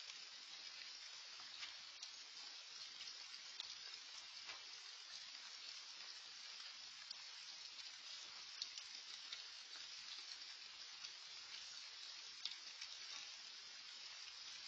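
Steady rain falling, a faint even hiss with scattered drops ticking at irregular moments.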